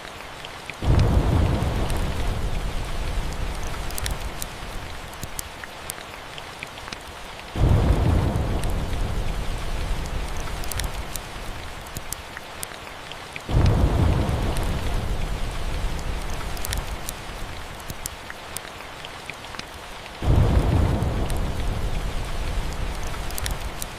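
Steady rain with four rolls of thunder, each starting suddenly and deep and fading away over several seconds, about every six or seven seconds. Scattered small crackles come through the rain.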